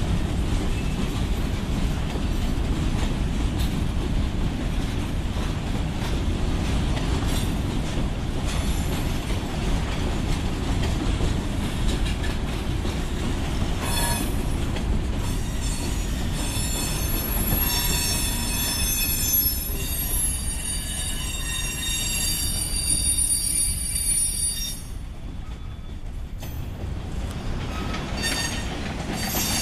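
Freight train hopper cars rolling past over the rails with a steady low rumble. From about halfway through, the wheels squeal in high tones for about ten seconds. Then the noise falls off as the last cars go by.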